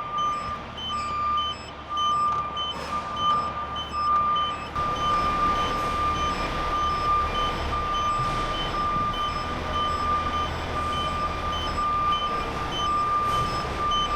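Vehicle reversing alarm beeping repeatedly over the low rumble of a truck's diesel engine, which gets louder about five seconds in.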